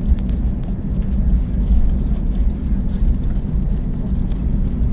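Steady low rumble inside the cabin of an Airbus A321neo taxiing, its jet engines at low power.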